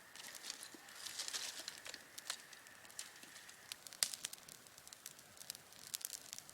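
A newly lit campfire crackling, with irregular sharp snaps and pops as the kindling catches.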